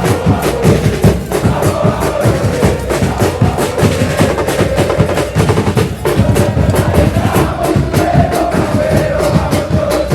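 Football supporters' drum band pounding bass drums and snares in a fast rhythm while a crowd chants in unison over it.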